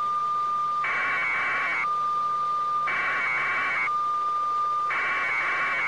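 Electronic alert tone: a steady beep alternates about once a second with a buzzier warbling tone, repeating evenly throughout.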